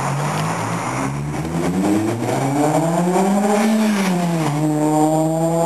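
Honda Civic Si engine heard through a Skunk2 70mm aftermarket exhaust, revving up steadily for a couple of seconds, then dropping back quickly and holding at a steady lower speed.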